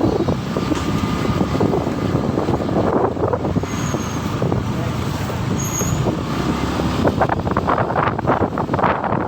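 Motorcycle running while riding along a busy road, with steady road and traffic noise around it.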